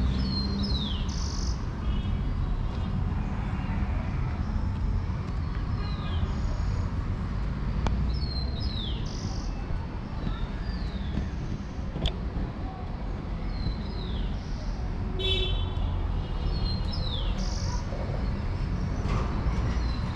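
A small songbird singing a repeated quick falling whistle every two to three seconds, with one short rapid trill partway through, over a steady low rumble of distant traffic.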